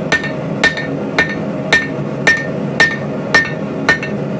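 Hand hammer striking hot steel on an anvil in a steady rhythm, about two blows a second, each with a short metallic ring, as the welded hammerhead and rebar haft are forged flat; a steady drone runs underneath.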